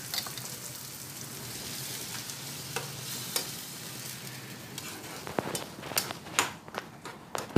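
Onions and freshly added ground tomato sizzling in oil in a nonstick frying pan while a spoon stirs them. From about five seconds in come a run of sharp scrapes and knocks of the spoon against the pan.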